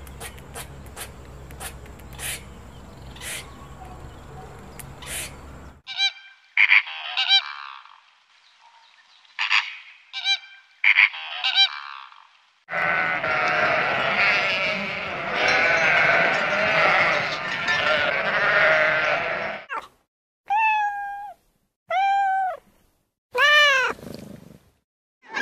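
A string of different animal sounds: first sharp clicks over a low hum, then short separate honking calls, then a flock of flamingos calling together for about seven seconds. Near the end a cat meows four times, each meow falling in pitch.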